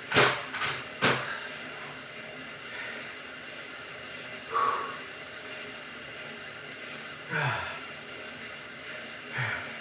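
A man's forceful breaths and short grunts of effort during a set of weight-lifting reps: a few sharp puffs in the first second, then single strained exhalations a few seconds apart, the later ones dropping in pitch.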